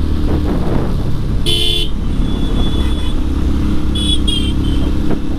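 Motorcycle engine running steadily on the move, with wind buffeting the mic. A short horn toot sounds about a second and a half in.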